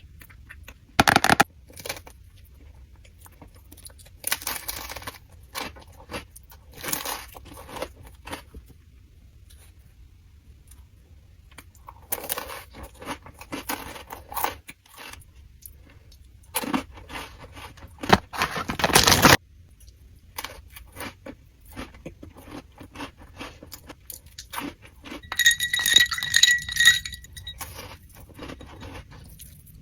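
Close-up eating sounds: crunchy bites and chewing in short bursts with sharp clicks between them. About 25 seconds in comes a quick run of bright ringing clinks, like a hard utensil tapping glass or metal.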